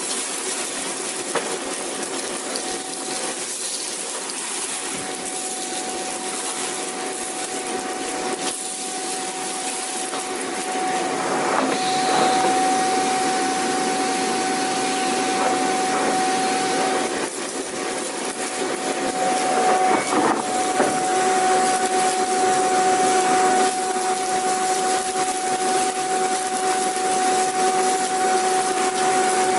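Vacuum cleaner running continuously: a steady rushing hiss with a constant high motor whine. It grows louder about two-thirds of the way through.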